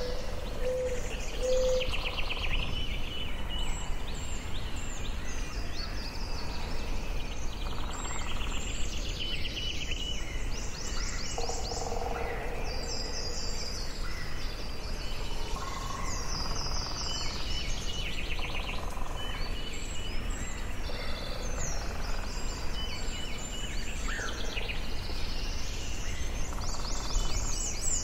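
Forest ambience: several birds singing and calling throughout, with repeated trills and chirps overlapping one another, over a steady low background rumble.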